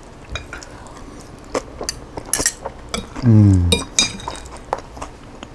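An eating utensil clinks against a dish in a series of short, sharp taps while salad is picked up. About three seconds in there is one short hum from the eater, falling in pitch.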